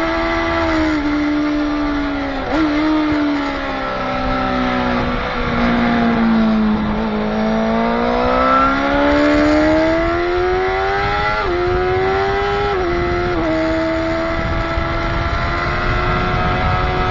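Motorcycle engine at track speed over wind rush: the engine note falls as the bike slows, then climbs steadily under acceleration, with several short drops in pitch as it shifts up through the gears.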